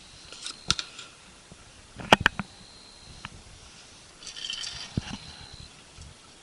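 Sharp clicks and light clatter of small camp gear being handled, with a double click about two seconds in, a short rustle, and a knock near the end.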